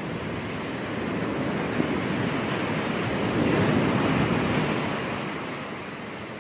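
Ocean waves breaking on a beach: a wash of surf that swells to a peak midway and fades away as the wave recedes.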